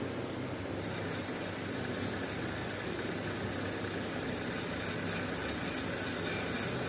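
Small electric motor of an RC model tractor running with a steady high whine over a low hum, starting just after two sharp clicks in the first second.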